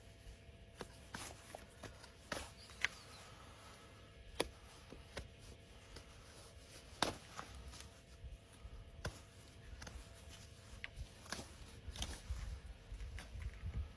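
Scattered sharp clicks and knocks at an irregular pace from hoof-trimming work on a horse's hoof, with a low rumble rising near the end.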